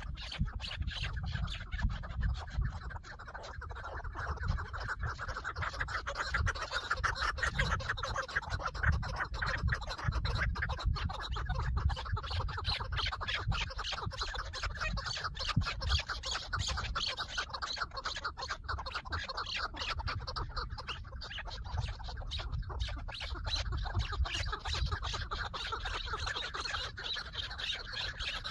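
Chukar partridges calling: a continuous run of rapid, clucking chuck notes over a low rumble.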